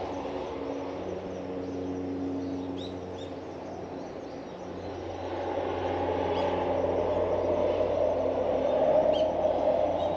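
Passing road traffic: a steady engine hum fades out a few seconds in, then a rushing noise swells louder toward the end. A few short bird chirps sound over it.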